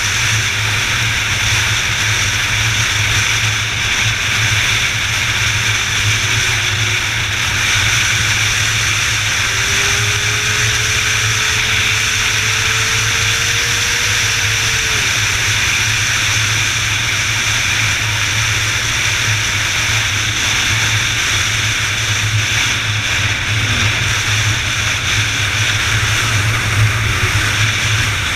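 Steady rushing road and wind noise of a moving vehicle, with a faint engine note that slowly rises in pitch about midway.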